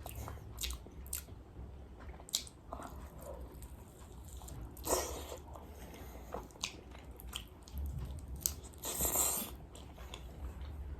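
Close-miked mukbang eating: biting and chewing fried chicken, with scattered sharp crunchy clicks and two longer, louder crunches about five and nine seconds in.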